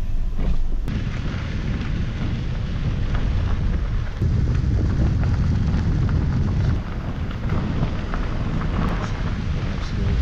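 Wind buffeting the microphone: a loud, low rumble that swells and dips irregularly.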